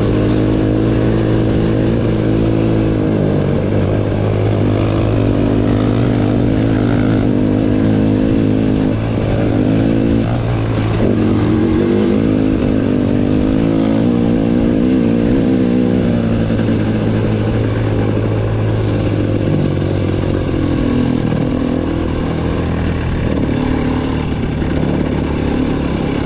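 Dirt bike engine running while riding a trail, with the pitch rising and falling as the throttle opens and closes.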